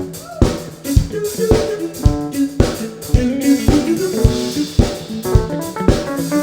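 A band playing a groove, with the drum kit's kick and snare keeping a steady beat about twice a second under bass and melodic instrument lines.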